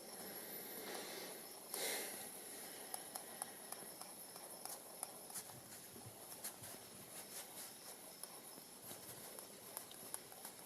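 Hand-spun gyroscope spinning: a faint steady high whine over hiss, with many scattered light clicks, and a brief louder rustle about two seconds in.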